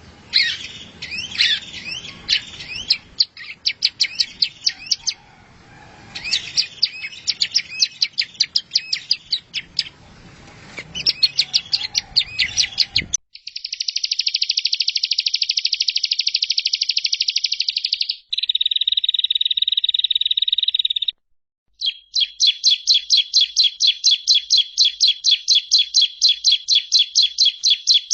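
Recorded songbird song used as a masteran (tutor track for caged birds): varied chirps and quick trills for about half the time, then an abrupt cut to clean, very rapid trills in three spliced stretches with short silent gaps between them.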